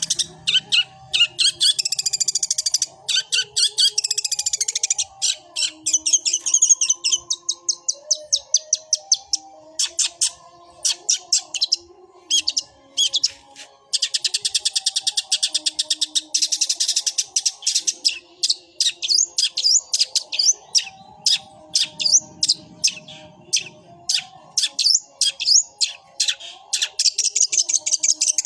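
Long-tailed shrike (cendet) singing a fast chattering run of high chirps and trills in its sparrow-imitating 'gereja' style, broken by short pauses.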